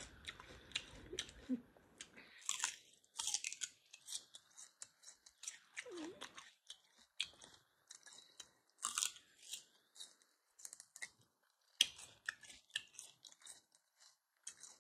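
A person chewing and eating chicken wings close to the microphone: irregular soft crunches, smacks and wet mouth clicks, fairly quiet.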